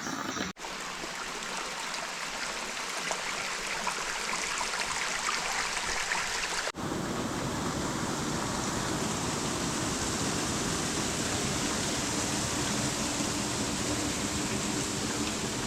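Steady rush of flowing water, like a jungle stream or small waterfall. It cuts out briefly twice, about half a second in and a little before halfway, and after the second break it is fuller and deeper.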